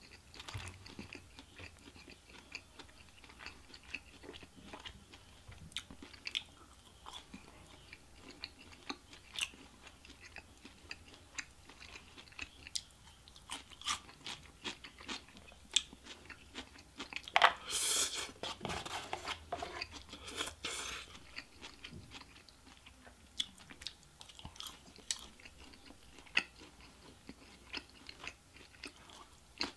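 Close-up chewing and crunching of fried Chinese takeout food (orange chicken, Beijing beef, fried rice), many small wet clicks and bites, with a louder stretch of crunching about two-thirds of the way through.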